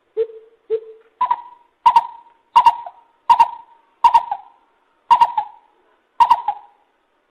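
Lesser coucal calling: two lower hollow notes, then a series of seven louder, higher hoots that come slightly further apart toward the end.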